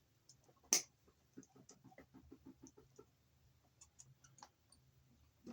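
Small clicks and ticks from a 14-gauge wire being worked back and forth to pull it out of a push-in wire connector: one sharp click near the start, then a run of quick faint ticks, about five or six a second, then scattered clicks.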